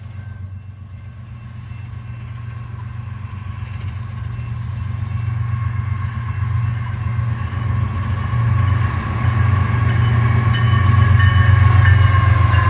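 Diesel locomotive approaching, its engine rumble growing steadily louder, with a steady high whine coming up over it in the last few seconds.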